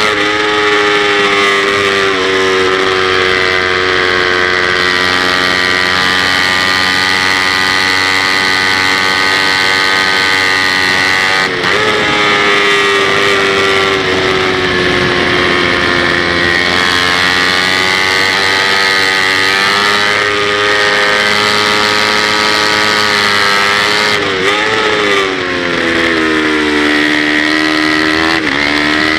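Kawasaki Ninja 250's parallel-twin engine running hard at high revs, heard from on board the racing bike, its pitch drifting slowly up and down. The pitch breaks briefly about a third of the way in and twice near the end, where it falls and climbs again.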